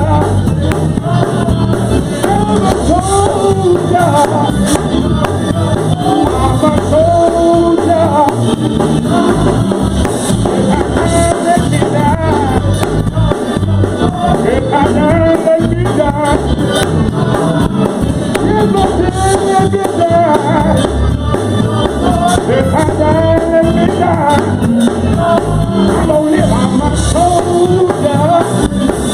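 Upbeat gospel praise music: voices singing over a band playing a steady beat.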